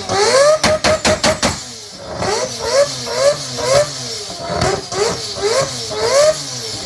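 Tuned high-performance car engine revved in quick blips, about two a second, its pitch rising and dropping with each. A rapid string of sharp exhaust pops and bangs comes in the first second and a half.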